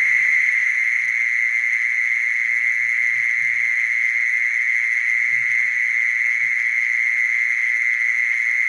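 Mole cricket calling: one steady, unbroken high trill that holds the same pitch and loudness throughout.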